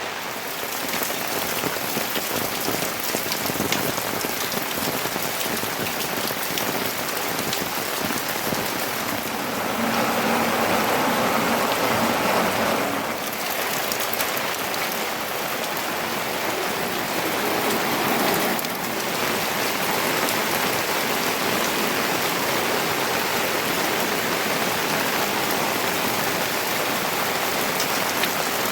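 Steady rain falling, growing a little heavier for a few seconds about a third of the way in.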